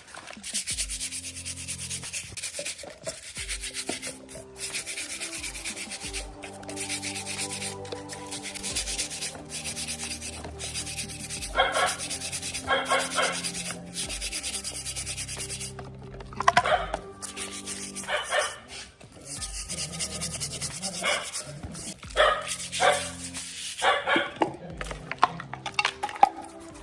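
Steady abrasive rubbing, as in sanding down parts of a hoverboard during restoration. A dog barks in short bursts several times from about halfway in, over background music.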